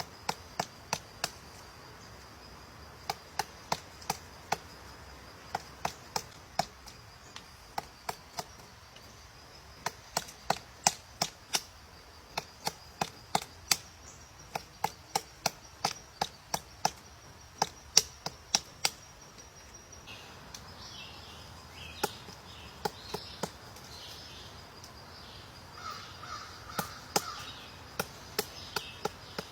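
Sharp dry clicks or knocks in irregular runs of several at a time, over a steady high insect drone; from about two-thirds of the way in the clicks thin out and a bird gives short repeated calls.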